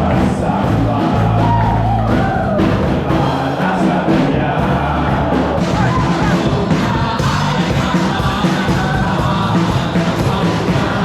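Live worship band playing an upbeat praise song with a steady beat while the congregation sings along, with shouts and whoops from the crowd.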